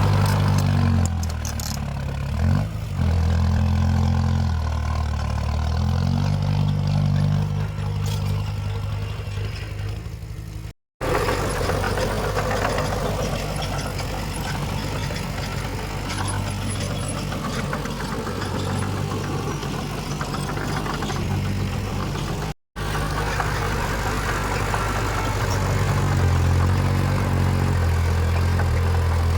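Heavy diesel earthmoving machine engine running, its pitch rising and falling with load, broken twice by brief silent gaps.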